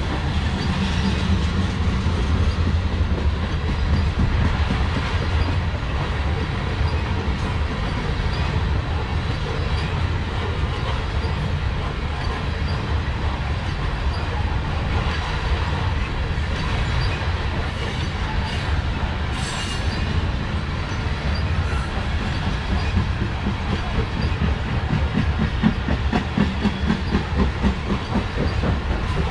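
Loaded coal gondola cars of a freight train rolling past in a steady heavy rumble, with wheels clacking over the rail joints. The clacks come in a quicker rhythmic run near the end.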